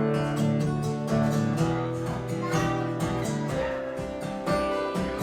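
Acoustic guitar strumming chords at a steady rhythm, playing a song's instrumental intro before the singing comes in.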